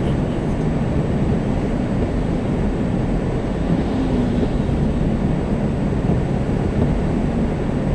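Steady low road and engine noise of a moving car, an even rumble that does not change.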